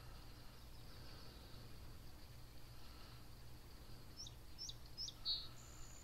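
Quiet outdoor ambience with a steady low rumble underneath; a small bird chirps a few quick, high notes about four to five seconds in.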